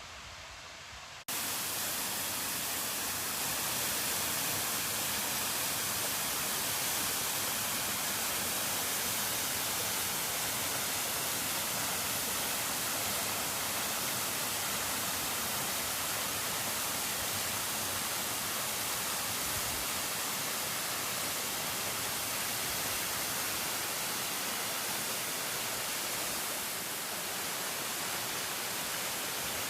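Steady rush of flowing river water, a constant even hiss that starts abruptly about a second in.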